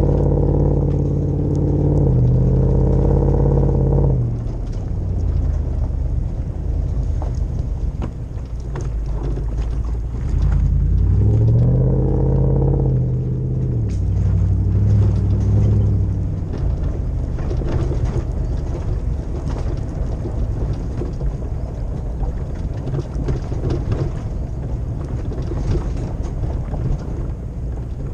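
Toyota 2UZ-FE 4.7-litre V8 of a 100 Series LandCruiser, heard through a full exhaust with a V8 rumble. It pulls with rising revs for about four seconds and then drops back. About twelve seconds in it revs up and back down once more, then runs on at lower, uneven revs.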